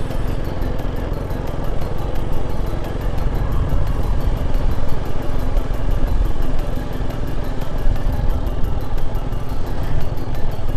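A motorcycle engine running steadily while riding, with a heavy low rumble, over background music.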